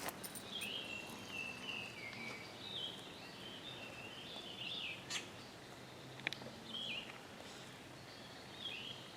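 Small birds chirping in short repeated phrases over a quiet marsh background, with a couple of sharp clicks about five and six seconds in.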